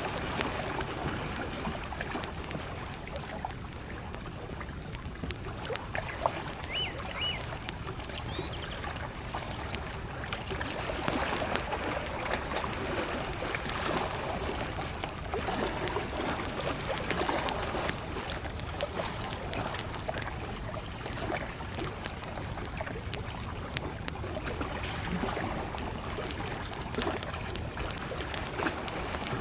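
Small waves lapping against a lakeshore with a wood campfire crackling in many sharp little pops. A few brief bird chirps come from the distance about six to nine seconds in.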